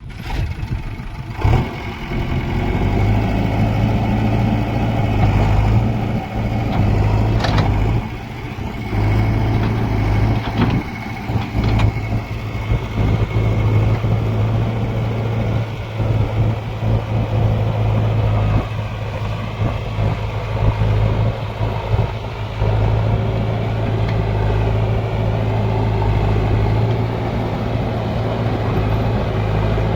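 Diesel engine of a heavy machine running steadily at a constant speed, with a few sharp knocks in the first half.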